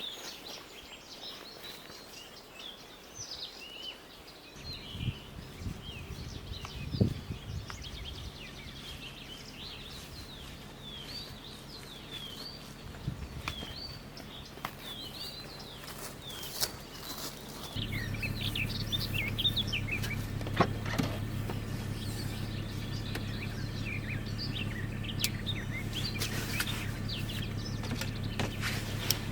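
Songbirds chirping and singing, many short calls. A low steady hum comes in about five seconds in and gets louder about eighteen seconds in, with scattered clicks.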